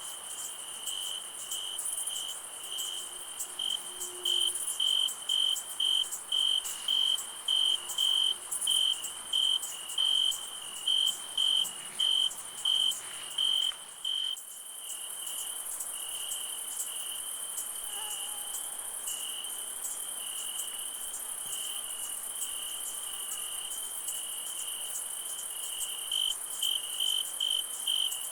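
Crickets chirping at about two chirps a second over a continuous high insect buzz. About halfway through, the chirps merge into an unbroken trill, then break back into pulses near the end.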